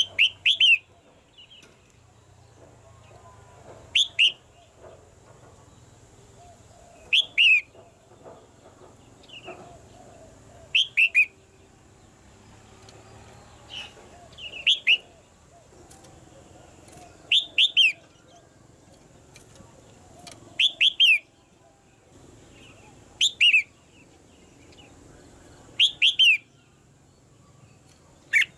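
Red-whiskered bulbul calling: short phrases of a few quick, falling notes, repeated about every three seconds, about ten times.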